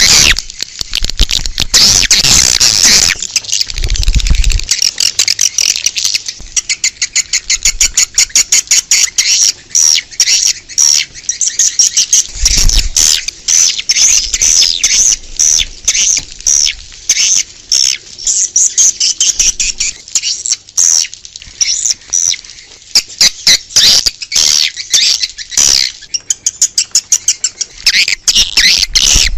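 Edible-nest swiftlet calls played as an outdoor lure sound to draw swiftlets to a bird house: a dense, continuous stream of rapid high chirps and twitters. Two brief low thumps come through, about four seconds in and again near the middle.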